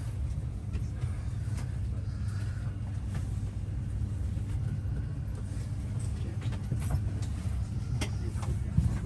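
Steady low hum of a train at the platform, with a few faint clicks and knocks over it.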